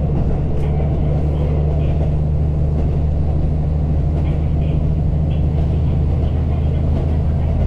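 Steady low hum and rumble of a vehicle's diesel engine, heard from inside the vehicle while it idles or runs at an even pace.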